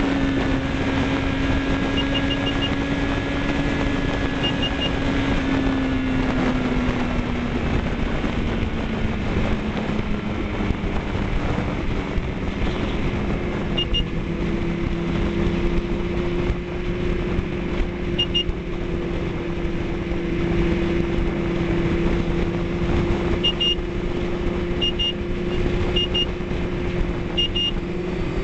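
A road vehicle's engine running while under way, with steady road and wind noise. The engine note drops about six seconds in, then settles on a new steady tone from about halfway through.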